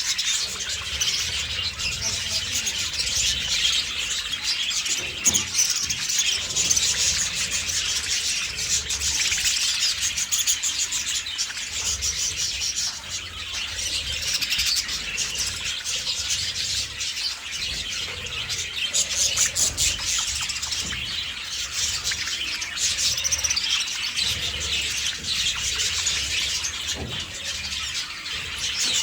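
Budgerigars chattering and chirping continuously, a dense unbroken stream of high bird calls.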